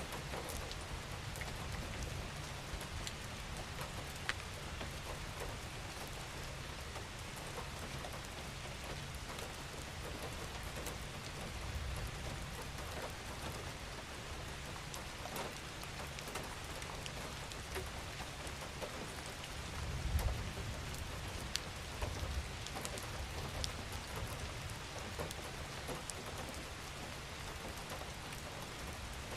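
Steady rain falling: an even hiss with scattered sharp ticks of single drops. A brief low rumble comes about two-thirds of the way through.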